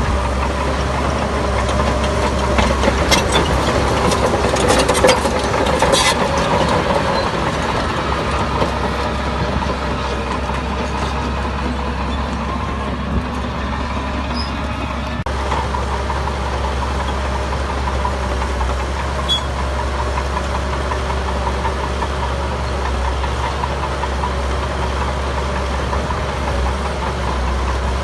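Heavy construction machinery's diesel engine running steadily, with a short cluster of sharp knocks a few seconds in. The sound shifts abruptly a little past halfway.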